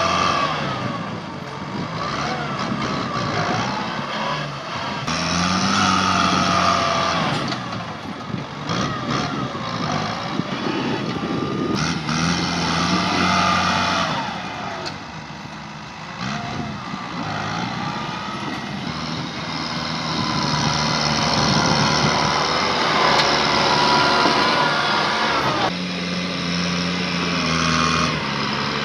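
Tractor diesel engine working under load, its pitch rising and falling. Knocks and cracks are mixed in, and the sound changes abruptly several times.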